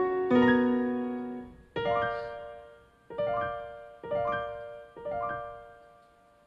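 Background piano music: five slow chords, each struck and left to ring away, the last fading out near the end.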